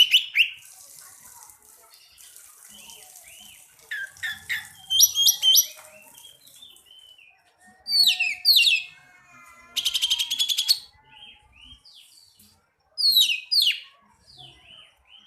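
Oriental magpie-robin (kacer) singing hard: loud clear whistles and sharp downward-sweeping notes in bursts, with a fast rattling run of repeated notes about ten seconds in.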